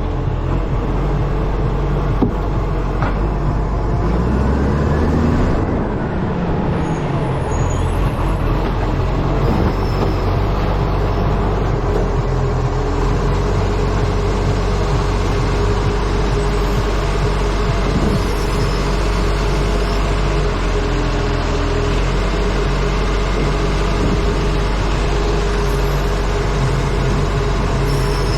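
ACCO refuse truck on the move, its diesel engine running steadily under heavy wind noise on a front-mounted camera. About four to seven seconds in, the engine note rises and falls as the truck changes speed.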